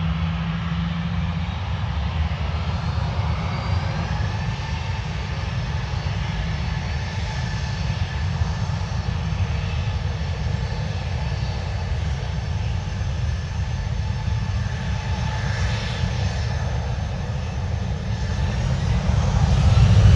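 Jet airliner engines running with a low rumble and a faint whine, growing louder over the last couple of seconds as the aircraft comes closer.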